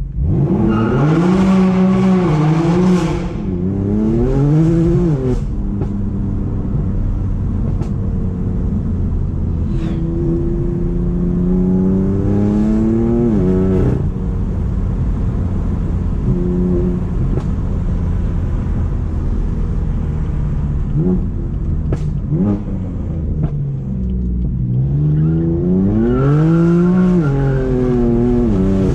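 BMW M4's tuned twin-turbo straight-six through a decatted, straight-piped Akrapovic exhaust, pulling through the revs several times: the pitch climbs and drops with each pull and gear change, with one long climb in the middle. A few sharp cracks from the exhaust come a little past the middle.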